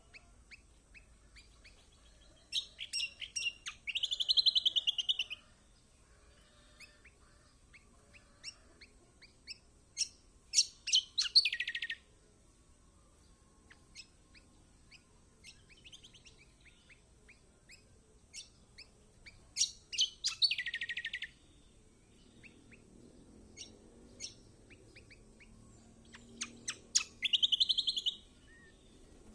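Kecial kombok (kecial kuning), a yellow white-eye, singing in four bouts. Each bout is a string of quick sharp chirps that runs into a fast, high twittering trill, and two of the trills fall in pitch at the end. Scattered single chirps come between the bouts.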